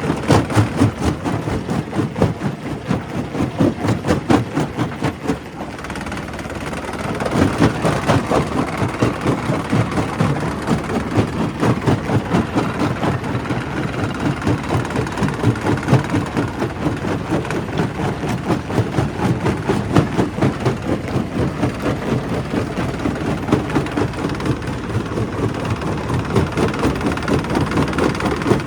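Quarry primary rock crusher running, a steady mechanical din with rapid pulsing. It eases off briefly about five to seven seconds in, then picks up again.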